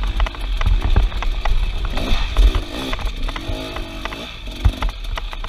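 Off-road vehicle engine revving up and down a few times, over a low rumble with scattered knocks and clatter.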